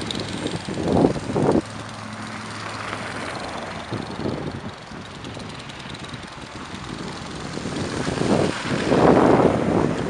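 A vehicle engine running with steady low hum and a constant noisy rush, swelling loudly about a second in and again near the end, as in blizzard driving conditions.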